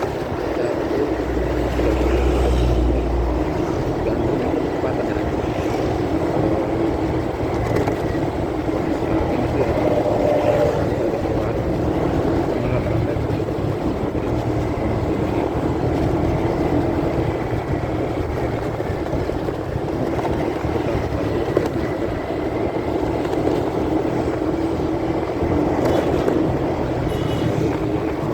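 Motorcycle riding noise heard through a phone in a pocket: a steady, muffled mix of engine and wind rumble.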